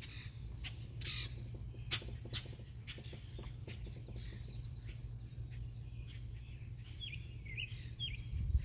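A few light knocks and clicks in the first three seconds, then a bird chirping several times near the end, over a steady low hum.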